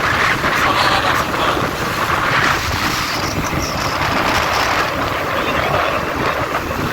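Wind rushing over the microphone with road noise while riding a motorbike at road speed, a steady loud noise without a clear engine note.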